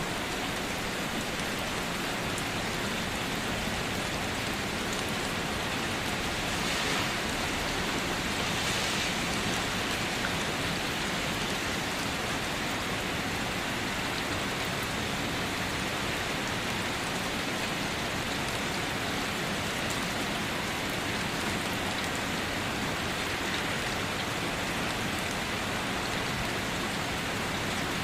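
Steady rain falling on a car, a dense even hiss of raindrops with occasional single drops ticking against the body, briefly heavier a few seconds in.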